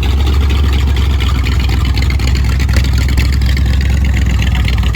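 Plymouth car's engine rumbling loudly and steadily through a side exhaust that exits just ahead of the front wheel.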